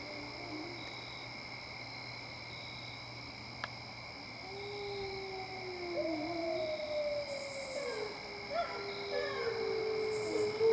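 Gray wolves howling in chorus: several long, drawn-out howls overlapping and sliding slowly down in pitch. The first howls trail off within the first second, and after a lull a new chorus starts about four seconds in and carries on, with a steady insect trill behind it.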